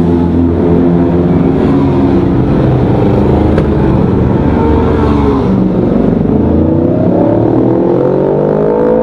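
Suzuki GSX-R600 race bike's inline-four engine at high revs on track. The pitch drops about five and a half seconds in as the bike slows, then climbs steadily as it accelerates hard again.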